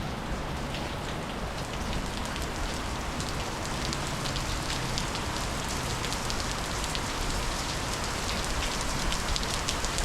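Steady monsoon downpour, rain falling on surfaces with a constant hiss and many distinct drops pattering.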